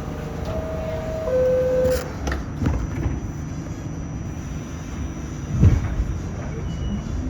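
R46 subway car's two-tone door chime, a higher note then a lower one, followed by the doors closing with a clunk and a loud jolt as the train sets off. Near the end the traction motors start a rising whine as the train pulls away from the station.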